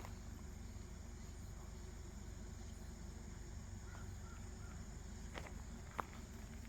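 Quiet outdoor ambience: a steady low rumble, a few faint short chirps around the middle, and a couple of sharp clicks near the end.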